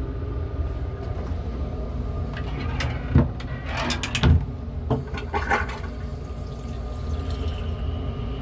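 Metro-North M3 railcar toilet flushing: a thump about three seconds in, then a short rush of water, with a few more splashes just after, over the steady low rumble of the moving train.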